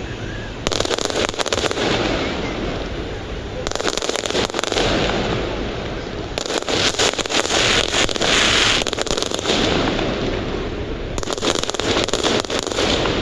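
Fireworks display going off in rapid succession: dense bangs and crackling that come in waves a few seconds apart, with no pause between them.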